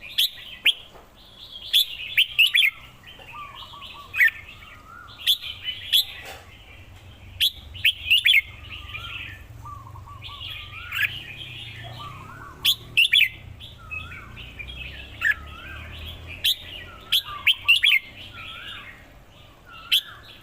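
Red-whiskered bulbul singing: short, sharp, clear phrases every second or two, over steady twittering.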